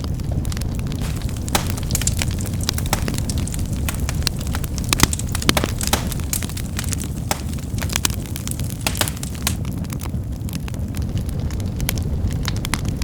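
Fire crackling: a steady low rumble of flames with many sharp, irregular pops and snaps.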